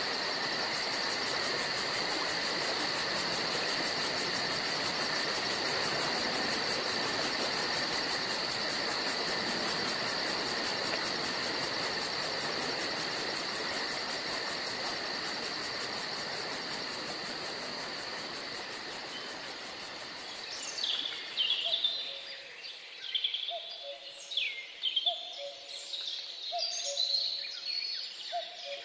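Forest ambience: a steady hiss with a high, fast-pulsing insect drone that fades away over about twenty seconds. Then several birds sing, with quick falling whistled notes and a repeated low two-note call.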